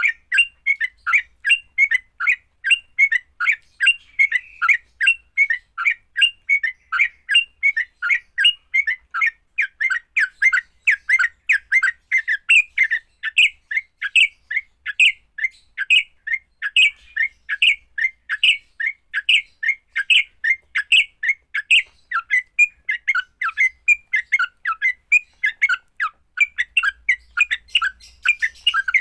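Yellow-vented bulbul (trucukan) giving its aggressive fighting call: a fast, unbroken string of short, sharp chirps, about three a second.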